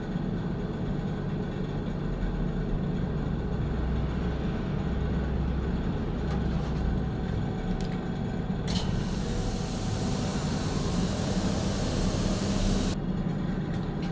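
Refrigeration system with a newly fitted compressor giving a steady low hum. A loud hiss of refrigerant gas starts sharply past the middle and cuts off about four seconds later.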